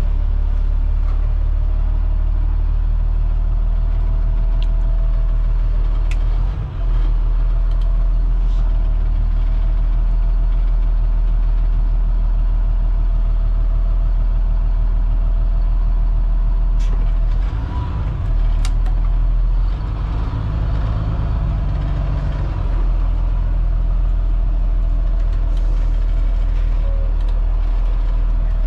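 Front-mounted Cat C7 inline-six diesel of a Blue Bird All American FE school bus running with a steady low rumble, with scattered clicks and rattles. The sound dips briefly twice, about seven seconds in and again near eighteen seconds.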